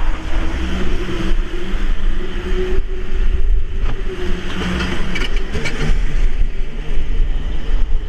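A motor or engine running steadily with a wavering pitch, mixed with wind buffeting the microphone.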